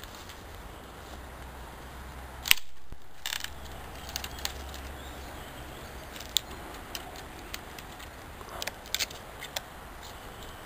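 Small campfire crackling, with scattered sharp pops and one louder snap about two and a half seconds in.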